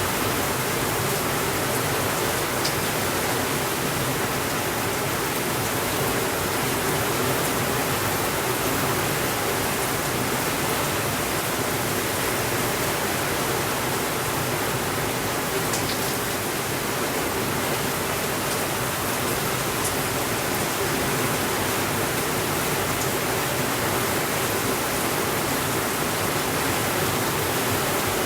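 Steady heavy rainfall, a dense even hiss with no pauses or swells, with a few faint clicks standing out from it.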